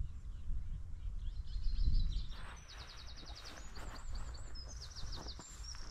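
Small songbirds singing outdoors, with quick trilled phrases of rapidly repeated high notes starting about two seconds in. A low rumble, like wind buffeting the microphone, fills the first two seconds.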